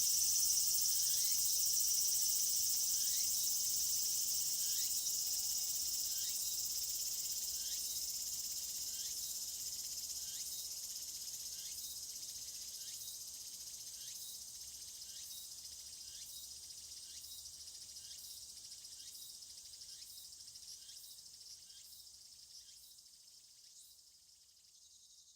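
Summer-night insect chorus: a dense high-pitched buzzing drone with short rising chirps repeating through it, fading out steadily.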